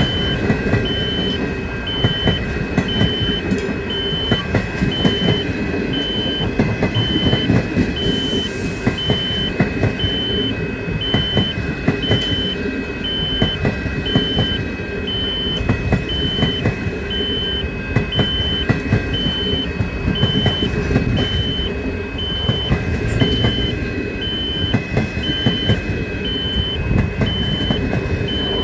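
Passing train, a steady heavy rumble with continuous clattering, while an electronic warning beeps regularly, alternating between two pitches a little over once a second.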